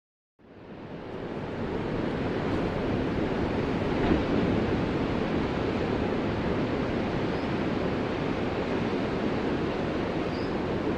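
Ocean surf: a steady wash of waves that fades in from silence within the first second or two, with a slight swell about four seconds in.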